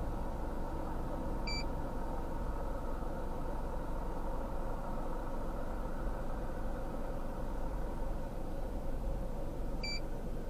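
Steady vehicle running noise with a low rumble. Two short, high electronic beeps sound, about a second and a half in and again near the end.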